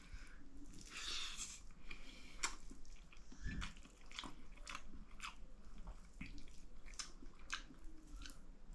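Close-up eating of dal bhat: a person chewing and biting mouthfuls of rice with lentil soup, with irregular wet mouth clicks and smacks, a few a second.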